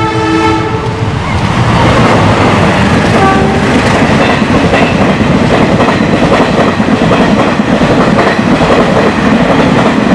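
An express passenger train passes close by at speed. The diesel locomotive's horn sounds and stops about a second in, then comes loud, steady rumbling and rapid clatter of the carriages' wheels over the rail joints.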